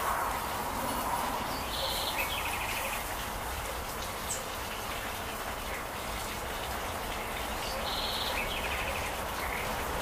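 A bird calls twice, about six seconds apart: each time a short high note followed by a lower, rapid trill, over a steady background hiss.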